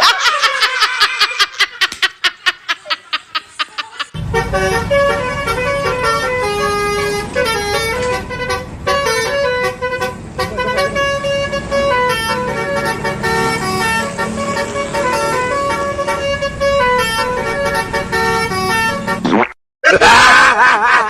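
Bus telolet horn playing a tune of stepped notes, after a few seconds of rapid clicking pulses with a falling tone. The tune cuts off suddenly near the end, and a warbling tone follows.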